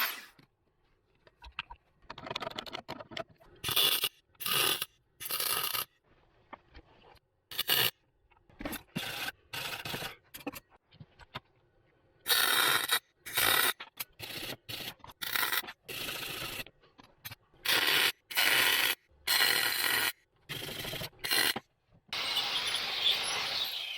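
MIG welder stitch-welding a patch panel into thin car-body steel of about 1 mm, in many short bursts of under a second each with pauses between. Near the end comes a steadier, longer stretch of about two seconds.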